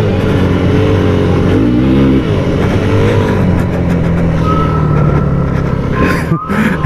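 Yamaha WR250F's single-cylinder four-stroke engine running under a rider on dirt. Its pitch rises and falls around two seconds in, then holds steady, and near the end it breaks into short uneven surges.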